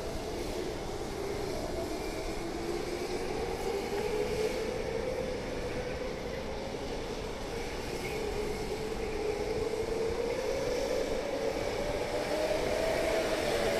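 A vehicle's steady hum, its pitch slowly dipping and then rising again, over street noise.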